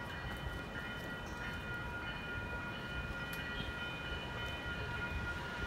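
Distant approaching Amtrak Pacific Surfliner passenger train: a steady low rumble with several steady high ringing tones held over it.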